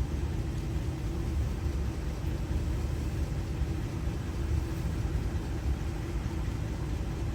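Steady low engine rumble, like a vehicle idling.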